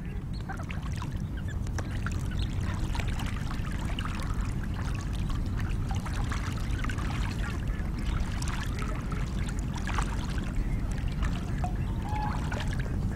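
A flock of ducks splashing and calling on the water, many short scattered calls over a steady low rumble.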